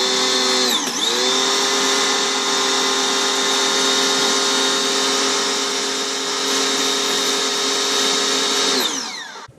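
A cheap electric pressure washer's motor and pump running under the trigger, a steady whine over the hiss of the spray. Its pitch sags briefly about a second in, and near the end it winds down and stops as the trigger is released.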